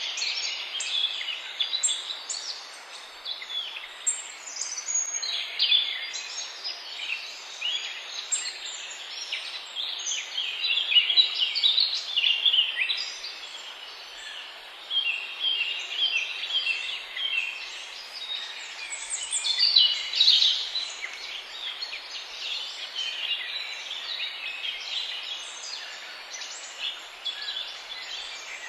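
Several songbirds singing at once: a dense chorus of quick, high chirps and trills that swells a few times, over a faint steady hiss.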